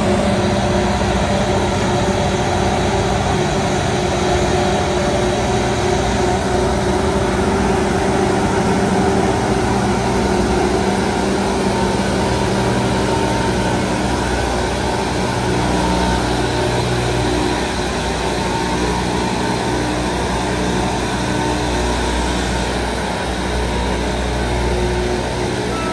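A train running past at close range: a loud, steady rumble with several humming tones, easing slightly after about 17 seconds.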